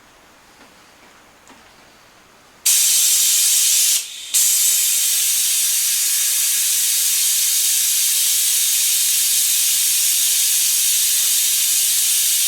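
Pneumatic vacuum brake bleeder switched on, its compressed-air venturi giving a loud steady hiss as it draws vacuum to pull brake fluid down through the front brake lines. It starts abruptly a few seconds in, cuts out briefly about a second later, then runs on steadily.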